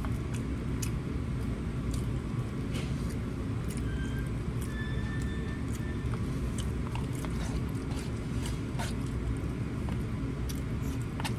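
Chewing and the scattered clicks of a fork in a takeout bowl of pasta, over a steady low hum.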